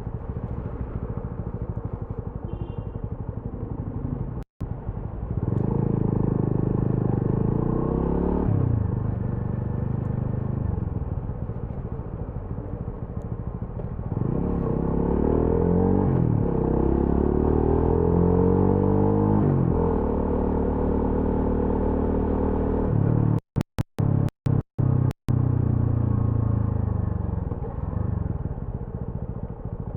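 TVS Apache RTR 200 4V's single-cylinder engine and exhaust under way, pulling up through the revs with sharp drops in pitch at gear changes about 8 and 16 seconds in. It then runs steady and falls away as the throttle closes near the end. The sound cuts out completely for an instant once early on and several times after the middle.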